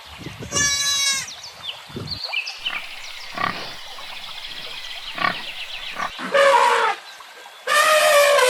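Pigs squealing in high, drawn-out calls about a second long, with short grunts between them; the longest squeal begins near the end.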